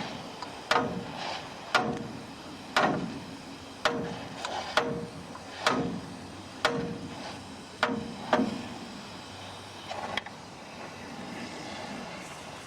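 Steel struck repeatedly in the work on a truck frame: sharp metallic clanks about once a second, each ringing briefly, which stop about ten seconds in.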